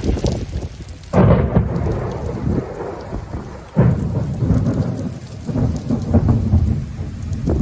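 Heavy rain falling, with thunder breaking in suddenly twice, about a second in and again near four seconds, each rumble rolling on for a few seconds.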